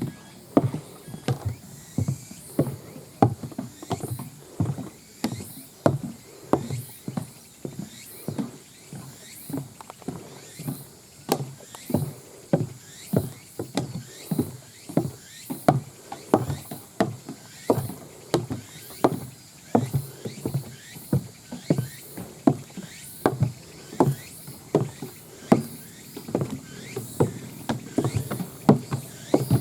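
Loose monitor of an old handheld video camera clicking and rattling with each step, about two clicks a second, while its wearer walks downhill on a trail. The clatter comes from the camera's unstable monitor assembly.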